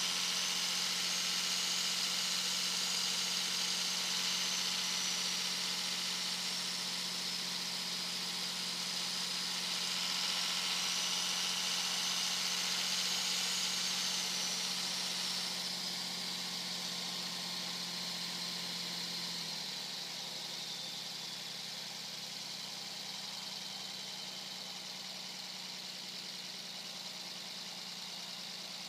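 Turbo whistle from a 2001 Dodge Ram 2500's 5.9-litre Cummins inline-six turbo diesel under way on the highway: a loud high whistle that rises and falls with throttle over the engine's steady drone. About halfway through the whistle slides down and fades, and the engine note drops as the truck eases off.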